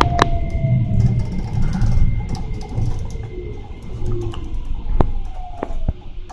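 Keikyu electric train running, heard from inside the carriage: a steady low rumble with sharp clicks from the wheels and rails, and whining tones that slowly fall in pitch.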